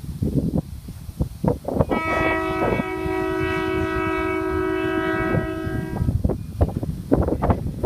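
Diesel locomotive air horn sounding one long chord of several notes, starting about two seconds in and cutting off about four seconds later, over a low rumble and knocking.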